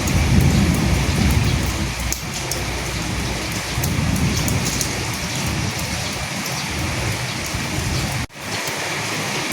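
Steady rain with a fine patter of drops, and low rumbles of thunder near the start and again about four seconds in. A split-second gap in the sound near the end.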